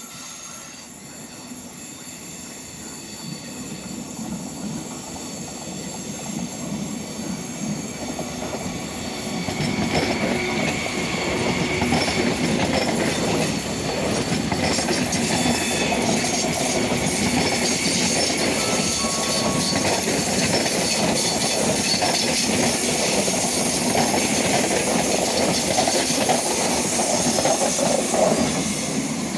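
Frecciarossa high-speed train approaching and passing close by on the platform track. Its wheels rumble on the rails, growing louder over the first ten seconds and then holding steady and loud as the coaches go past.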